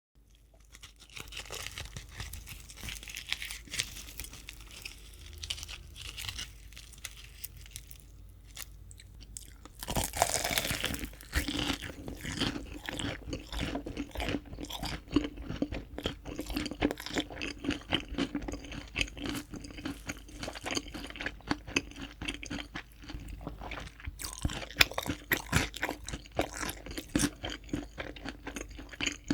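Close-miked chewing of crispy fried chicken: dense crunching of the fried coating, with a louder bite about ten seconds in and steady chewing after it.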